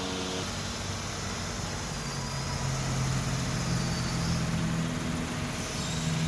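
Ultralight aircraft's engine droning at low power as it comes in to land, growing slightly louder and higher in pitch near the end.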